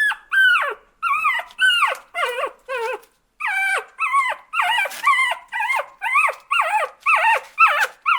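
An animal's rapid series of short, high-pitched cries, about two a second, each one sliding down in pitch.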